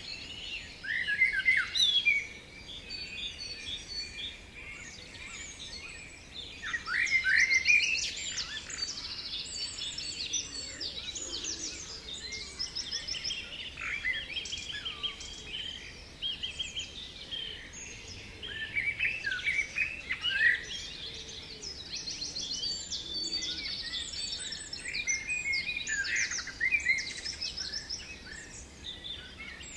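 Several songbirds singing at once, a dense chorus of quick chirps, rising whistles and fast trills that overlaps throughout, with louder bursts about 1 second and 7 seconds in.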